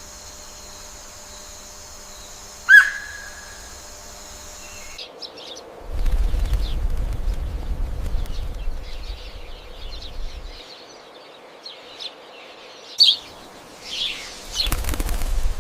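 Wild birds calling: first a single sharp, loud chirp over a steady high insect drone, then, after an abrupt change in the background, scattered short chirps over a low rumble, with two louder calls and a noisy rustling burst near the end.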